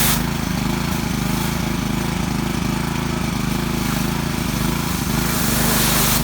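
Small gasoline engine of a pressure washer running steadily, with the hiss of the water spray swelling toward the end.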